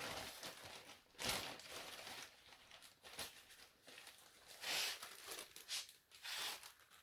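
Plastic bag being handled, with irregular bursts of rustling and crinkling, the loudest a little over a second in, near the middle and near the end.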